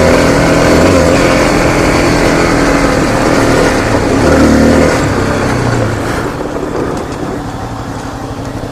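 Honda CRF250L's single-cylinder four-stroke engine running under load, revving up and down as the rider works the throttle. It eases off and gets quieter about six seconds in.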